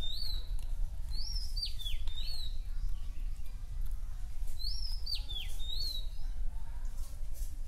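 A songbird whistling a short phrase of three rising-and-falling notes, twice, a few seconds apart, over a steady low rumble.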